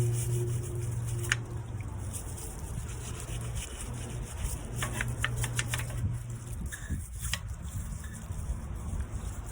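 A scouring pad scrubbing a dirty car tyre and rim, in irregular rubbing, scratching strokes with a few clicks, over a low steady hum.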